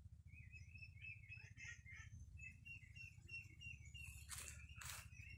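Birds chirping faintly: a run of short, high chirps over a low rumble. Two brief rustles come near the end.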